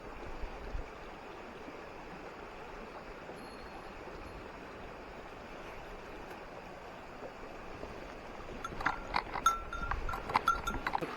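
Stream water rushing steadily; a little over eight seconds in, a small bell starts jingling with quick irregular strikes that grow louder.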